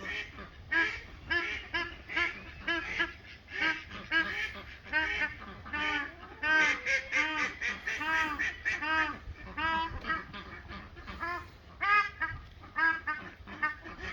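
A flock of fowl calling over and over with short honking calls, about two or three a second, many birds overlapping.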